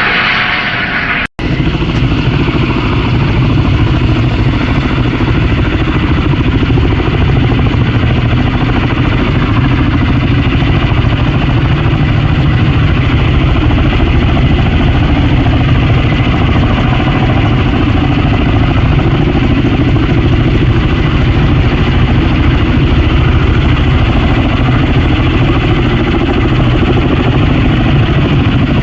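Helicopter running close by, a loud, steady mix of rotor and turbine noise. It comes in after a brief dropout about a second in.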